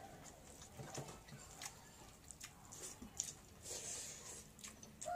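Close-up chewing and lip-smacking of people eating by hand, with soft wet mouth clicks at irregular intervals and faint squishes of rice being mixed with the fingers.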